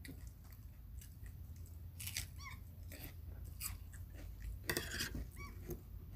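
Close-up chewing and crunching of food, with small wet mouth clicks and a few light clinks of a spoon, strongest about two seconds in and again near five seconds.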